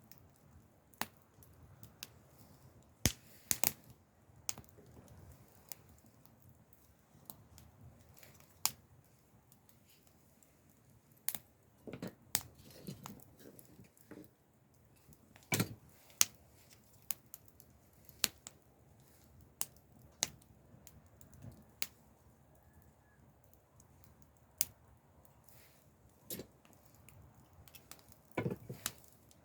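Wood campfire crackling: irregular sharp pops and snaps over a quiet background, a few of them louder.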